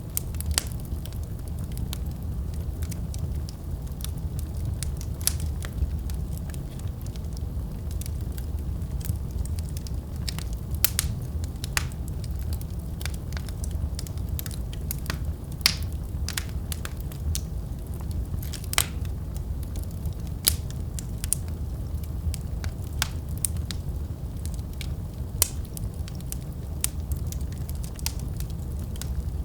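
Wood fire crackling in a fireplace: a steady low rumble of flames with irregular sharp pops and snaps throughout, a handful of them louder.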